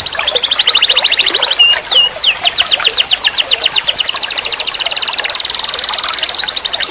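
Canary singing a run of rapid trills: fast series of repeated high notes, each a quick downward sweep. It moves from one trill to the next, with a brief pair of sliding whistles about two seconds in, then a long, even trill of about ten notes a second.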